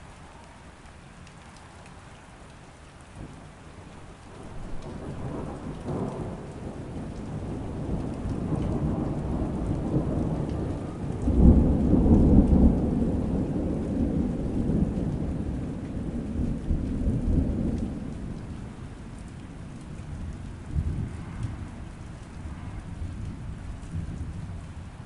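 Steady rain with a long roll of thunder that builds from about four seconds in, peaks about halfway through, then fades away with a smaller rumble near the end.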